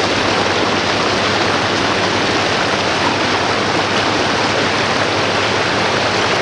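Fast floodwater rushing and churning in a steady, loud roar of moving water.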